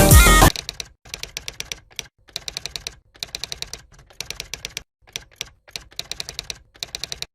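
Music cuts off about half a second in, followed by runs of rapid typing clicks, like typewriter keys, in several short bursts with brief pauses between them.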